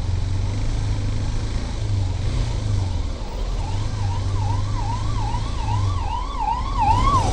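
Emergency-vehicle siren in a fast up-and-down warble, about two sweeps a second, growing louder through the second half. It sounds over the steady low drone of the motorcycle being ridden.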